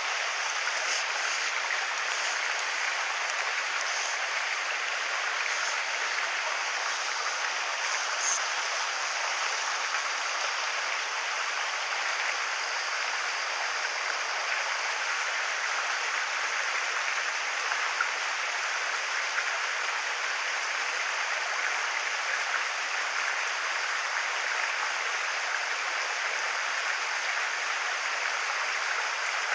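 Mountain stream water rushing steadily over rocks, an even hiss with no change.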